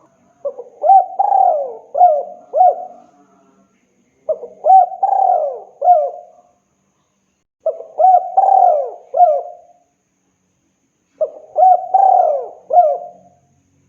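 Spotted dove (tekukur) cooing, a male's call to a female: four phrases of several rolling coo notes each, repeated about every three and a half seconds with short pauses between.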